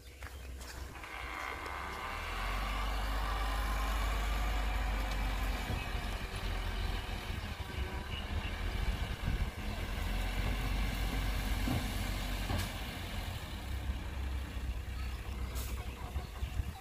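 Heavy diesel vehicle engine running close by, its low rumble and whine growing louder about two seconds in and then holding steady, with a couple of sharp knocks later on.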